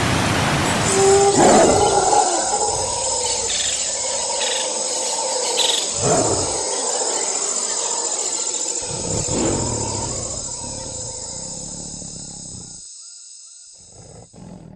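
Loud wild animal calls, three of them a few seconds apart, over a steady high-pitched drone; all of it fades out near the end.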